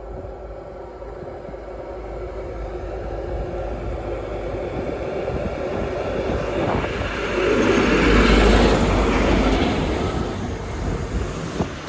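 A ScotRail Inter7City HST's diesel power car and coaches running along the track. The rumble grows steadily, is loudest about eight seconds in as the train draws close, then eases.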